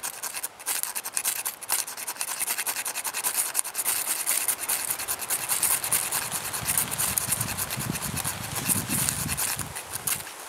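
Knife blade scraping rapidly and repeatedly along a wooden stick, rasping off fine shavings for fire tinder.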